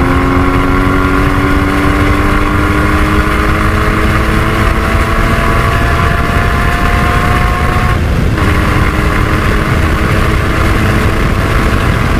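Porsche 981 Cayman GT4's 3.8-litre flat-six engine pulling under load, its pitch climbing slowly; about eight seconds in an upshift breaks the note and drops the pitch, and it climbs again. A steady rush of noise runs underneath.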